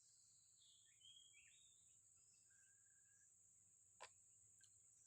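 Near silence: faint outdoor ambience with a steady high insect drone and a few faint bird chirps, and a single sharp click about four seconds in.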